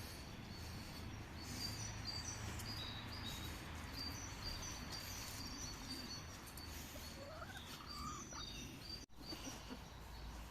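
Small birds chirping in quick runs of short high notes over a faint steady background, with one brief rising call about seven to eight seconds in.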